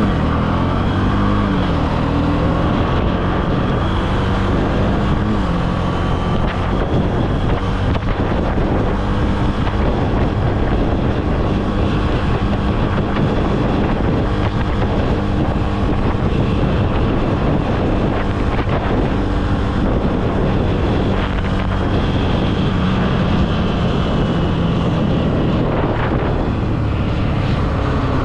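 Honda CB300F motorcycle's single-cylinder engine running under way; its note rises briefly about a second in, then holds steady. Wind noise on the microphone throughout.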